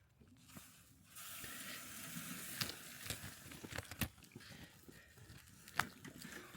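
Rustling and crinkling of material, with a steady hiss starting about a second in and a few sharp clicks and knocks.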